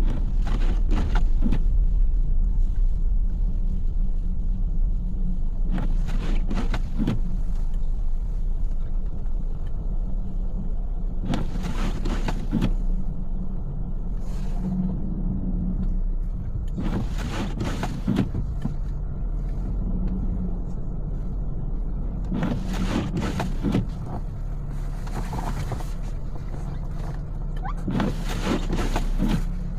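Steady low road and engine rumble inside a moving car, with a swish of the windshield wipers every five to six seconds.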